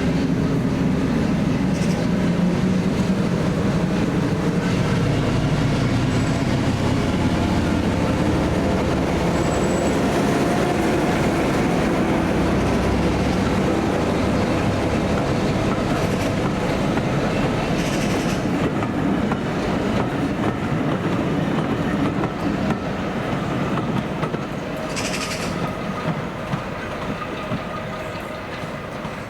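Diesel-hauled train running, the locomotive's engine droning over wheels clicking across rail joints, with a few sharp knocks. The sound fades gradually near the end as the train moves away.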